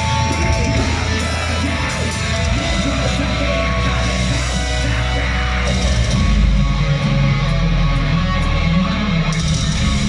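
Heavy metal band playing live: distorted electric guitars and bass over pounding drums, loud and dense with a heavy low end.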